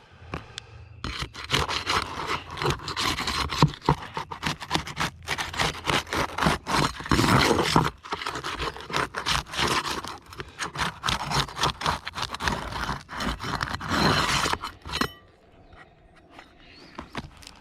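Asphalt roof shingles being pried up and worked loose by hand: a dense run of irregular scraping and crackling that starts about a second in and dies down near the end. The shingles are brittle.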